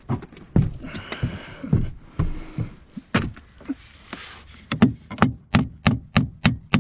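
Hammer striking, a few scattered knocks and thumps and then, from about two-thirds of the way in, a quick even run of sharp blows, about three a second, typical of driving a nail.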